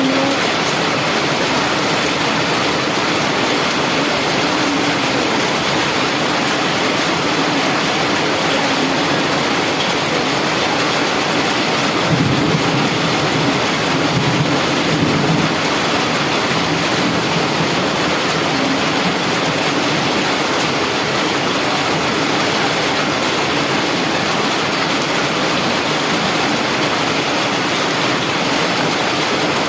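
Heavy rain falling steadily, with a truck engine running underneath that swells briefly about halfway through.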